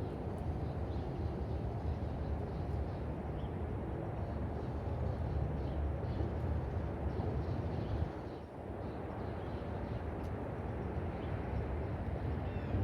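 Outdoor ambience: a steady low rumble, with a few faint bird chirps now and then.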